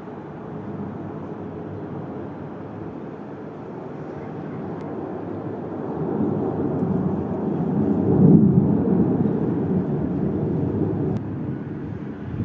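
Airplane passing overhead: a low rumble that swells, peaks about eight seconds in, then eases off.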